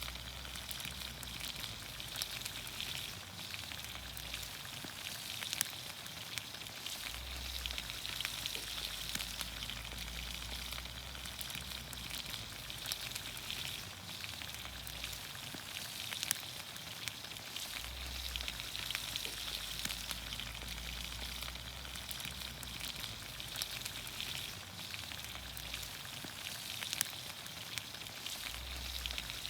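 Vegetables cooking in olive oil in a pan over a campfire: a steady sizzling hiss dotted with many small sharp pops.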